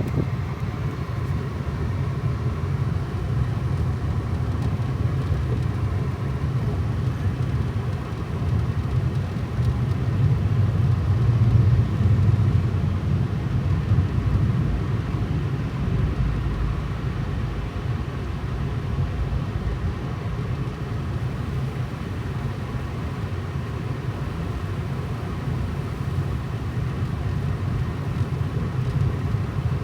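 Car driving on a slushy road, heard from inside the cabin: a steady low rumble of engine and tyres, swelling a little around the middle.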